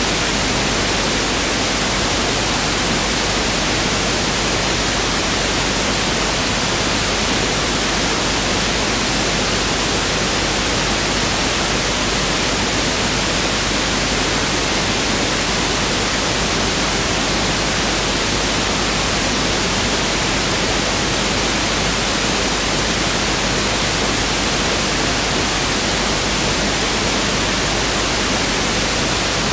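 Pink noise test signal: a steady, even hiss spread across the whole audible range, running without change.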